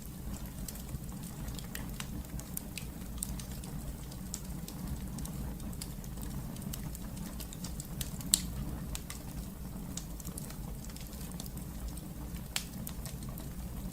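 Wood fire burning in a fireplace: a steady low rumble of flames with scattered sharp crackles. A loud single pop about eight seconds in, and another near the end.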